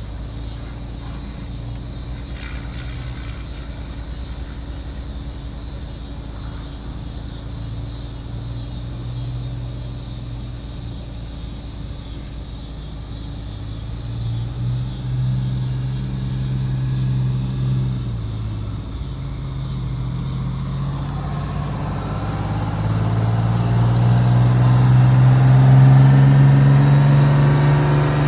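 Detroit Diesel 6V92 two-stroke V6 diesel in a Peterbilt 352 idling, revved up briefly about halfway through, then pulled up in a longer steady climb of pitch near the end. Cicadas buzz steadily throughout.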